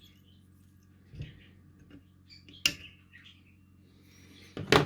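A few sharp clicks and knocks of small hand tools handled on an electronics workbench during kit soldering. The loudest knock comes near the end.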